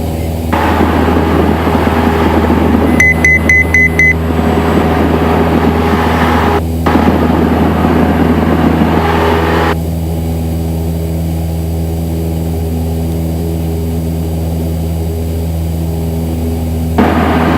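Cessna 172 SP's Lycoming four-cylinder engine and propeller running steadily at takeoff power, a constant low drone heard inside the cockpit. A rushing noise cuts in and out over it. About three seconds in comes a quick string of five short, high electronic beeps.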